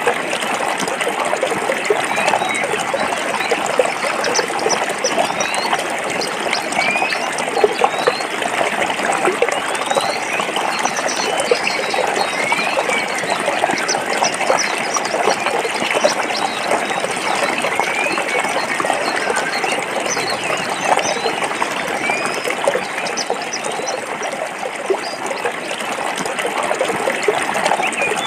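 Forest stream flowing over rocks, a steady rush and trickle of water, with faint short rising chirps now and then.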